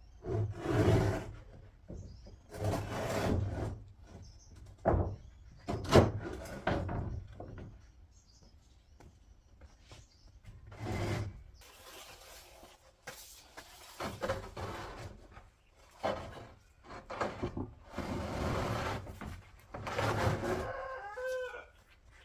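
Chickens clucking and calling in short, separate bursts, with a wavering call near the end.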